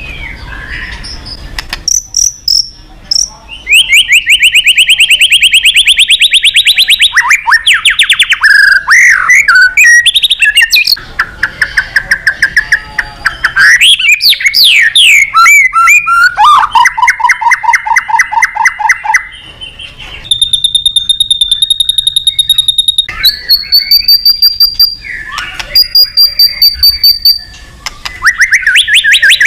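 White-rumped shama singing a loud, varied song: fast trills of rapidly repeated notes alternate with high, clear whistled notes, the phrase changing every few seconds.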